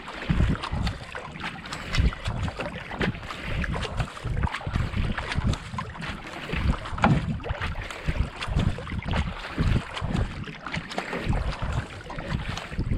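Racing kayak being paddled hard at about 70–80 strokes a minute: the blades splash into the water stroke after stroke over the steady rush of water past the hull. Wind buffets the microphone.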